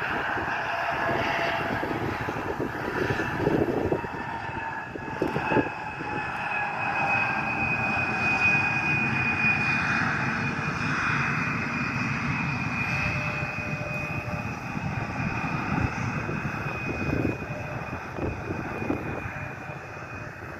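Airplane engine noise as an aircraft passes: a broad rush with a steady high whine, swelling through the middle and fading near the end.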